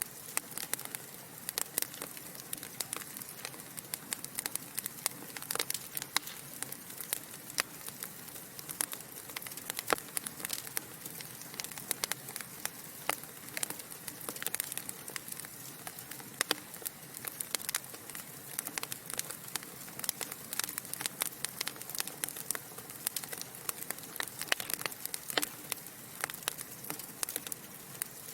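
Wood logs burning in a fireplace, crackling: many irregular sharp pops and snaps, several a second, over a soft steady hiss of the flames.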